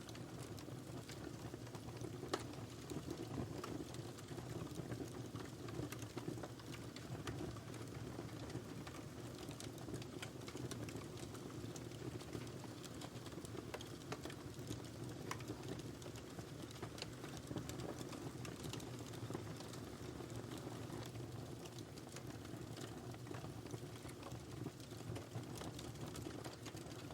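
Wood fire burning in a fireplace: a steady low rush of flames with frequent small crackles and pops from the burning wood, and one sharper pop about two seconds in.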